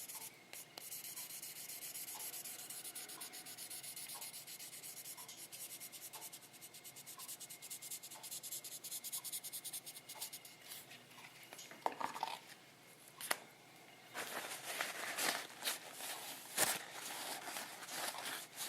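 Very fine-grit wet sandpaper rubbed lightly back and forth in quick strokes over the painted body of a scale model car, a soft, even scratching hiss. From about twelve seconds in the rubbing breaks up into a few louder knocks and handling noises.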